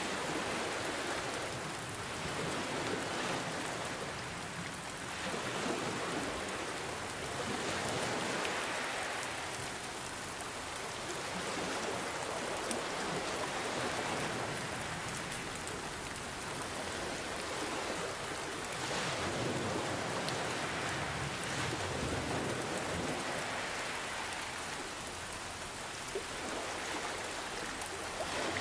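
Steady rain falling, mixed with ocean waves that swell and ease every few seconds.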